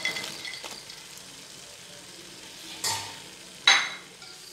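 Fried paneer cubes being tipped and stirred into a metal pot of vegetables frying over a steady, light sizzle, with a few clinks at the start. A single sharp metallic clank sounds a little before the end.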